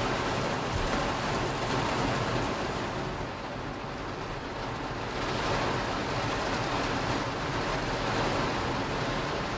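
Heavy rain pouring down on a parked car, heard from inside the cabin as a steady rushing hiss that eases slightly midway.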